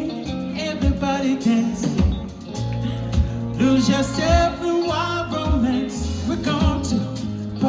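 Live yacht rock band playing an upbeat song, with singing over bass and a steady drum beat.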